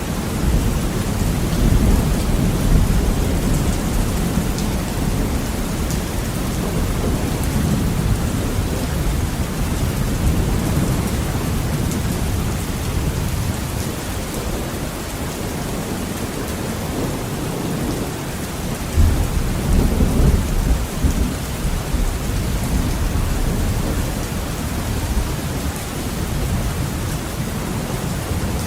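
Heavy rain pouring steadily on a window, with thunder rumbling low beneath it. The rumble is strongest near the start and swells again in a louder roll about two-thirds of the way through.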